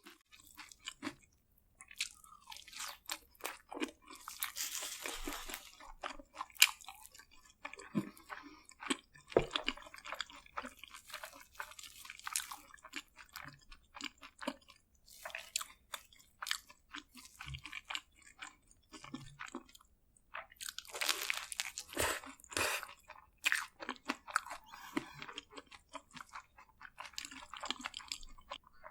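A person eating crispy fried food close to the microphone: crunchy bites and chewing of a crisp coated crust, coming in irregular bursts, busiest about four seconds in and again after about twenty seconds.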